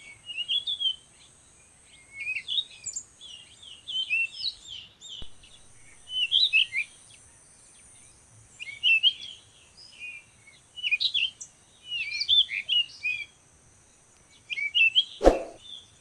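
Birds singing in short, quick chirping phrases that come about every one to two seconds, over a steady high hiss. A single sharp click near the end.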